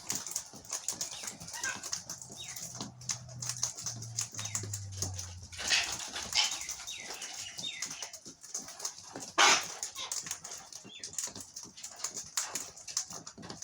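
Wild birds feeding on scattered seed: a steady patter of sharp clicks and taps, with wing flaps and a few short, falling chirps.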